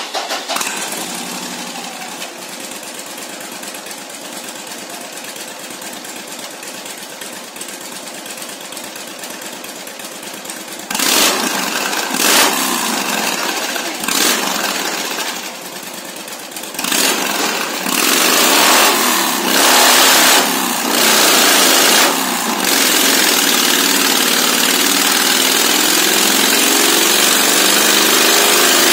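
Harley-Davidson touring motorcycle's V-twin engine on a chassis dynamometer: it idles steadily, then is revved in a series of short throttle blips, and from about two-thirds of the way in is held at high revs, pitch climbing slowly, for a dyno run.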